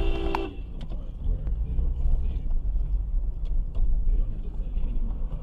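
Low engine and road rumble of a car driving, with a few faint clicks; a steady pitched tone cuts off abruptly about half a second in.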